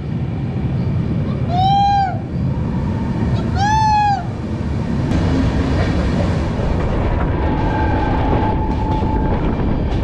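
Passenger train running with a steady low rumble. Twice, about two and four seconds in, a short wail rises and falls in pitch over it, and a faint steady whine comes in during the second half.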